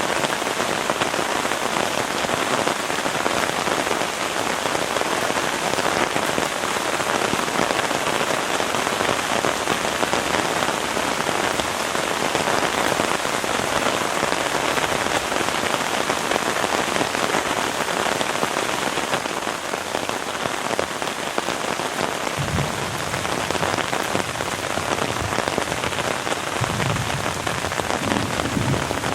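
Heavy rain falling steadily in a dense, even patter, with a few dull low thumps in the last several seconds.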